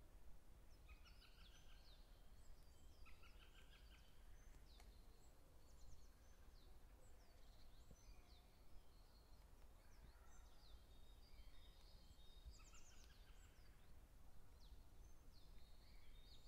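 Several small birds singing faintly, short chirped and trilled phrases overlapping one another, over a low steady rumble.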